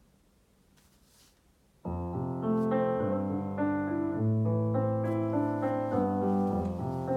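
Near silence for about two seconds, then background music begins abruptly: a piano playing sustained chords over a bass line.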